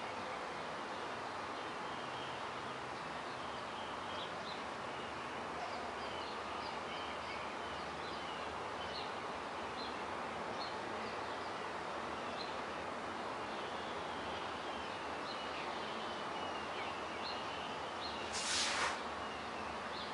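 Steady background hiss with birds chirping outside, short high chirps scattered through the middle. Near the end comes a short burst of noise lasting under a second, the loudest thing here.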